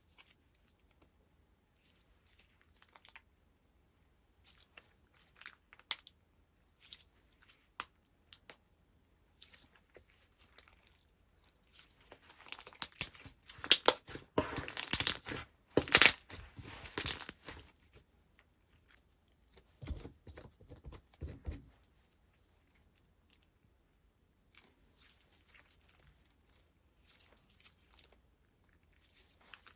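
Slime being played with by hand: scattered small clicks and pops, then about six seconds of dense crackling and popping as it is pressed and stretched, followed by a few soft low thumps.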